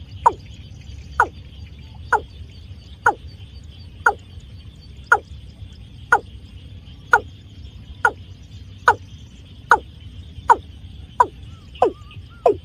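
Watercock call used as a trapping lure: a series of short, sharply falling notes, about one a second, coming a little quicker toward the end, over a faint steady insect-like hiss.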